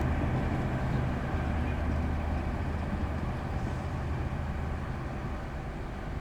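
KTM Class 24 diesel-electric locomotive's engine running with a steady low drone, gradually fading.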